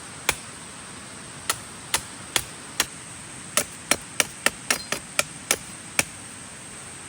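Sharp chops of a blade into hard wood: about fourteen strikes, quickening in the middle and stopping about six seconds in.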